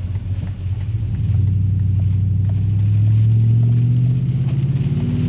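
Chevrolet Silverado pickup's engine heard from inside the cab, pulling away: a low hum that climbs a little in pitch about a second in, then runs steadily.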